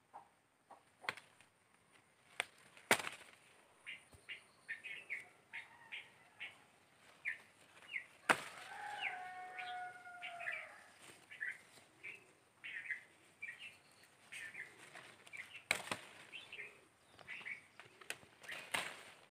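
Small birds chirping again and again in short, quick notes, with a longer falling call about eight seconds in. A few sharp clicks and snaps are spread through it, the loudest about eight seconds in and near the end.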